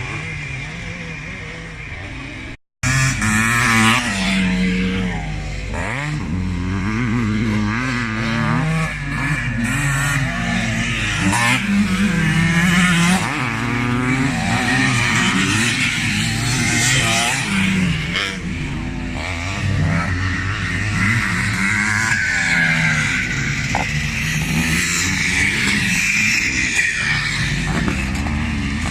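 Several classic motocross motorcycles running on the track, their engine notes revving up and down over one another. There is a brief cut to silence about three seconds in, after which the engines are louder.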